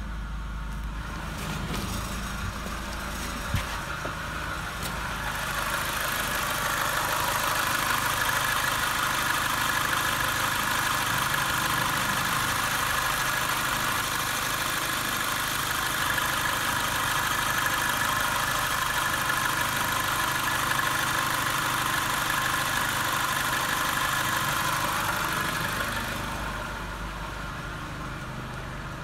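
Renault Megane's 1.6 K7M eight-valve petrol engine idling steadily. It is heard first from inside the cabin, then close up with the bonnet open, where the running whir from the top of the engine is louder. There is a single sharp click a few seconds in.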